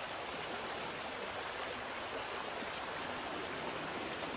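Steady rush of water: an even hiss with no distinct splashes or knocks.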